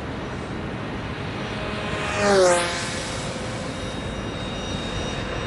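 An aircraft flying past close by, its engine note and high whine dropping sharply in pitch as it goes by, over a steady rush of background noise.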